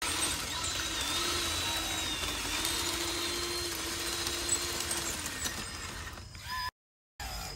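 Electric drive motor and gearbox of a radio-controlled construction model whining steadily, its pitch wavering slightly, fading out after about five seconds. After a brief dropout near the end, shorter whirs rise and fall.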